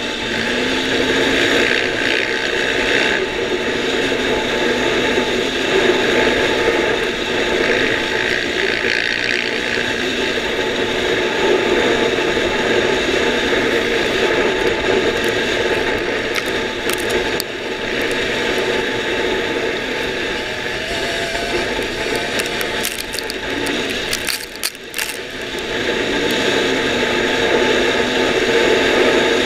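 Dirt bike engine running hard at speed, heard from on the bike with wind noise and chassis rattle. Near the end the engine note shifts and drops briefly, then picks up again.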